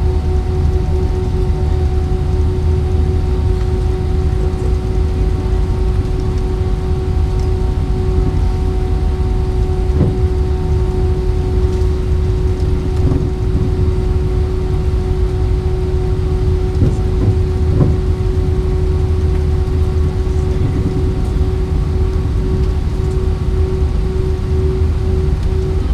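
Jet engines of an Airbus A320-232 (IAE V2500 turbofans) heard from inside the cabin, running steadily as a loud low rumble with a steady hum. A couple of brief thumps come about ten and eighteen seconds in.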